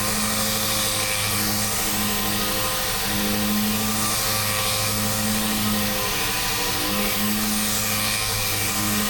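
Dual-action orbital sander with 320-grit paper on an interface pad, running steadily flat on a primed car body panel to refine 220-grit scratches; a continuous whirring hiss with a low hum that wavers a little in pitch.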